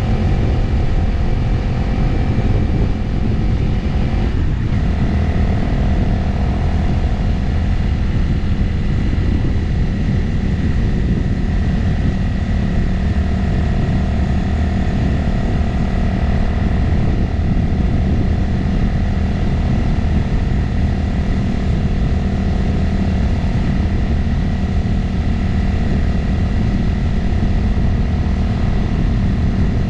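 Motorcycle engine running steadily while riding at road speed, under heavy wind noise. The engine note changes once about four seconds in, then holds steady.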